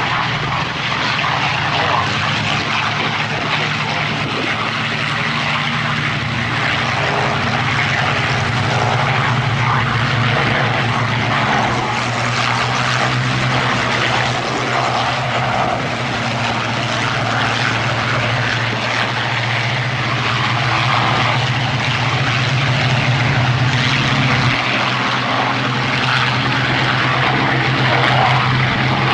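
Propeller-driven piston-engined aircraft flying a display, its engine running as a steady, loud drone.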